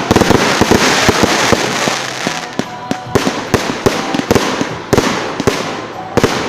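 Fireworks going off: a dense crackling volley in the first couple of seconds, then a string of separate sharp bangs.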